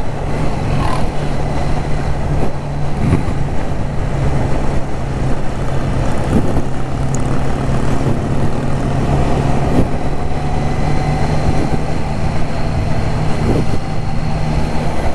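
Triumph Trident 660's three-cylinder engine running steadily at cruising speed, with a constant low hum under a rush of road and wind noise.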